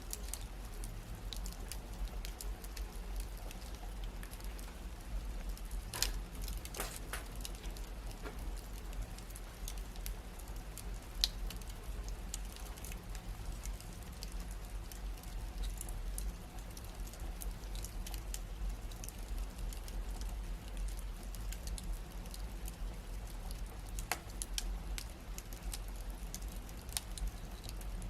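Wood fire crackling in a fireplace: irregular small pops and snaps over a low steady rumble, with a few sharper pops about six seconds in and again near the end.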